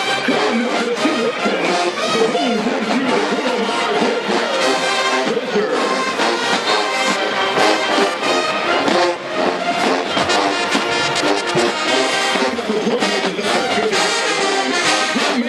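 HBCU marching band playing at full volume: massed brass, trombones and trumpets prominent, over a steady run of percussion hits.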